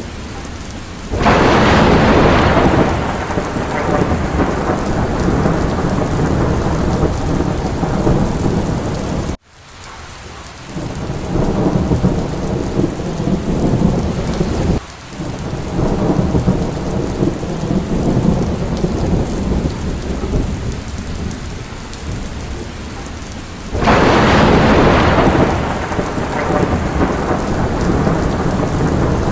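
Steady heavy rain of a thunderstorm, with thunder breaking in twice, about a second in and again near the end, each a sudden loud clap that rolls away over a few seconds. The sound cuts out for an instant about nine seconds in.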